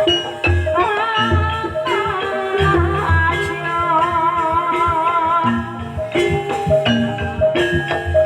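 Live Banyumasan ebeg music in campursari style: a wavering sung melody over held gamelan-type notes, with deep drum beats recurring through it.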